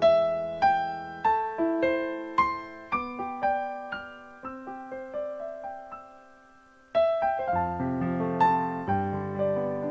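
Background piano music: a slow melody of single struck notes that fades almost away about two-thirds through, then resumes with fuller chords.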